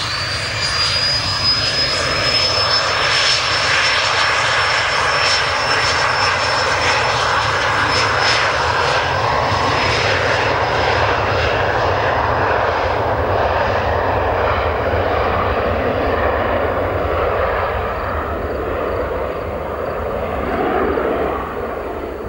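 Cessna 525 Citation CJ1 business jet's twin turbofan engines running loud, with a thin high whine that rises slightly over a steady roar. About halfway through the whine and the high end fade, leaving a lower roar that drops off near the end.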